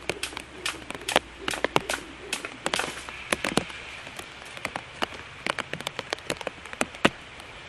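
Raindrops hitting a surface close to the microphone: many sharp, irregular ticks over a steady hiss.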